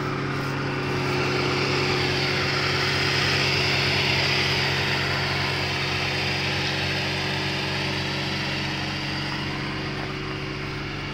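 A Lada's engine idling steadily, heard from outside the car, with a steady hiss over it that grows a little louder in the middle few seconds.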